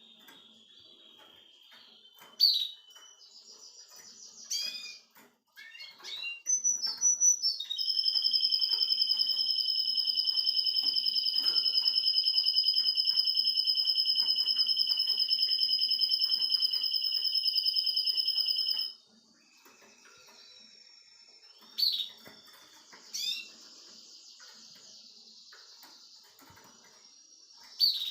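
Russian canary singing: a few short sharp calls and chatter, then a long, loud, evenly rolling trill on two steady pitches held for about eleven seconds, which stops abruptly and gives way to softer high chirps and trilling.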